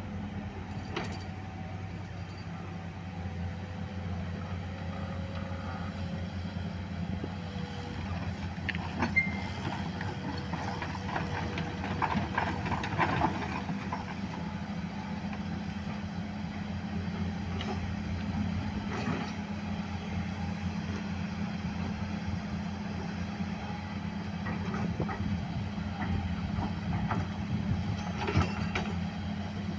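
Heavy diesel engine running steadily, with scattered clanks and knocks of machinery at work.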